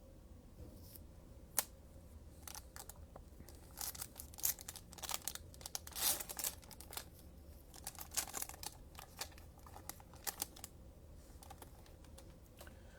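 A foil trading-card pack being opened and its cards handled: scattered crinkling of the wrapper and light clicks and slides of card stock, thickest in the middle of the stretch.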